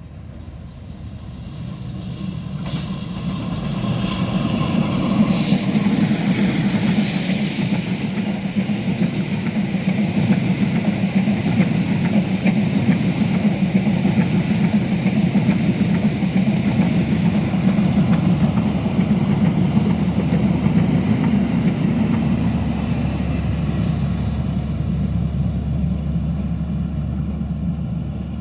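A train passing close by, its carriages rolling past in a steady, loud rumble. The sound builds over the first few seconds as the train approaches, then holds and eases a little near the end.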